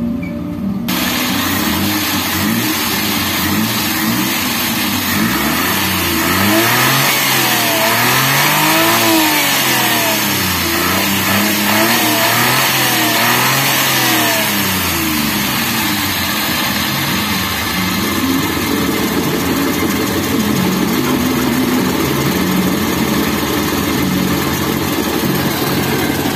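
Suzuki F6A three-cylinder engine catching about a second in, then revved up and down several times and settling to a steady idle. It is running again after its timing belt and tensioner were refitted, having refused to start before.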